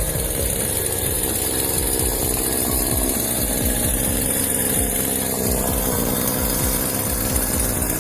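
A motor running steadily, with a rapid low pulsing.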